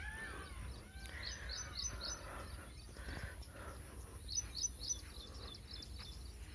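Several wild birds singing and chirping in the morning: lower curving whistled calls near the start, then quick runs of four or five high, sharp repeated notes, heard twice. A steady low rumble runs underneath.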